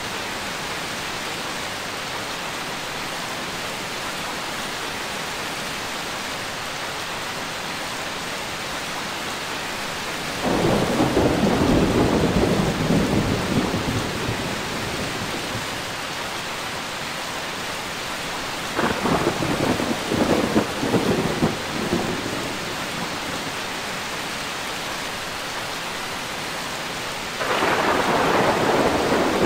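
Steady rain falling, with three rolls of thunder: one about a third of the way in lasting a few seconds, a second rolling and rumbling in pulses past the middle, and a third breaking in suddenly near the end.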